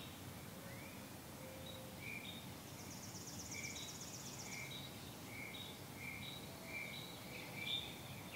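Faint outdoor background of bird calls: short chirps repeated throughout, with a high buzzy trill lasting about two seconds from about three seconds in, over a low steady hiss.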